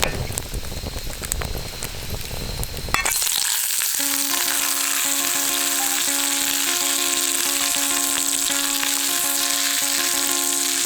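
Food frying in a pan: a dense, steady sizzle that begins abruptly about three seconds in. Before it there is a rougher crackling noise.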